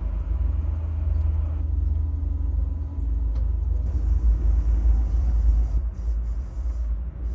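Low, fluctuating rumble of a passenger train in motion, heard on board.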